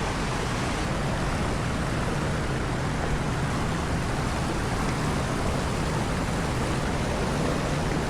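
Big Sioux River waterfall rushing steadily over quartzite rocks, an even unbroken wash of water noise.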